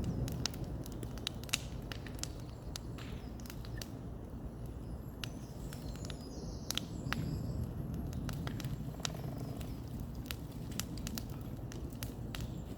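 Bonfire crackling: irregular sharp pops and snaps over a low steady rumble.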